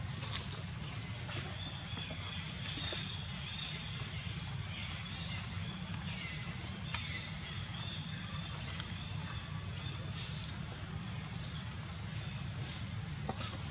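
Small birds chirping: short high-pitched chirps repeated every second or so, with two brief rapid trills, the louder one just after the start and another about eight and a half seconds in, over a steady low hum.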